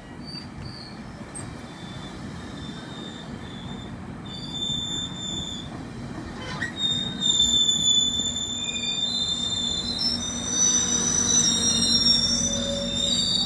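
GO Transit bilevel passenger coaches rolling past a platform: a steady low rumble of wheels on rail, with high-pitched metallic squealing that gets louder from about halfway in.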